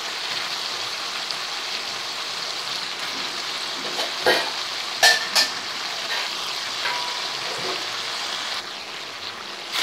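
Steady sizzle of potatoes, beans and Bombay duck (loita) fish frying in mustard oil in a pan, with a few sharp clicks of the metal spatula against the pan around four and five seconds in.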